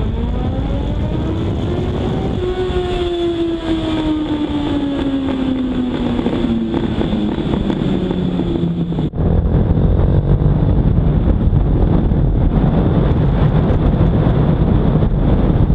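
A motorcycle engine whose pitch rises for about two seconds and then slowly sinks over several seconds. About nine seconds in it cuts suddenly to a Honda Monkey 125's single-cylinder engine running while the bike is ridden, mixed with wind noise on the on-board camera.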